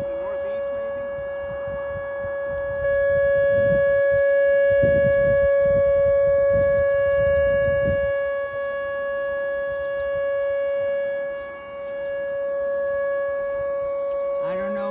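Outdoor tornado warning siren sounding a single steady tone, its loudness swelling and fading as it sweeps around. Gusts of wind rumble on the microphone in the middle.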